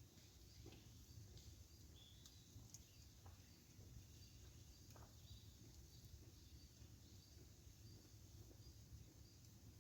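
Wood campfire crackling faintly with scattered small pops over a low rumble, while a short high chirp repeats at an even pace, about one and a half a second.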